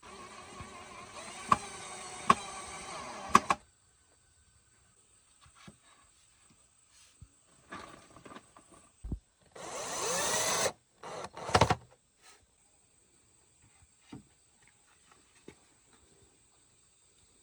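A small electric power tool running for about three and a half seconds, with sharp clicks in it. Near the middle it runs again for about a second, its pitch rising as it spins up, and scattered knocks and taps fall between the two runs.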